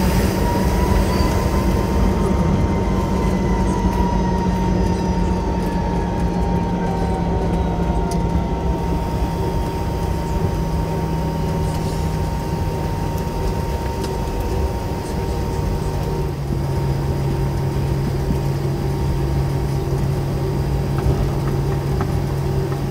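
Cabin sound of a McDonnell Douglas MD-90 taxiing with its rear-mounted IAE V2500 turbofans at idle: a steady hum and whine over rumble. A gliding tone falls in pitch near the start, and the main hum steps lower about two-thirds of the way through.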